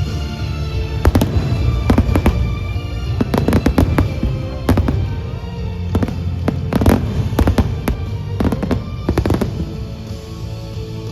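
A series of irregular sharp bangs, some in quick clusters, over background music.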